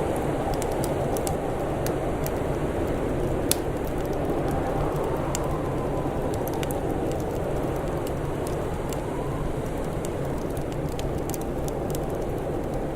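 Wood fire crackling with scattered small pops, one sharper pop about three and a half seconds in, over a steady low rush of wind with a faint rising and falling whistle.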